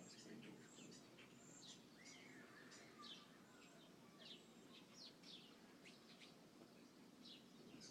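Small birds at a feeder chirping faintly: many short, quick, high chirps in irregular succession, with one longer curving call about two seconds in.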